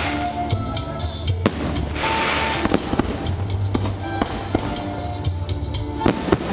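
Fireworks display finale: sharp bangs scattered through, with a cluster near the end, and stretches of hissing crackle, over steady music.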